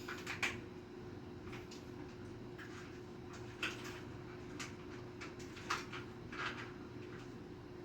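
A few light, sharp clicks and taps at irregular intervals over a steady low electrical hum.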